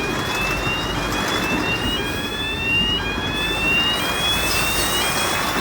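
Railway level crossing warning alarm sounding: a stacked tone that rises slowly over about a second, drops back and repeats, over a steady background noise.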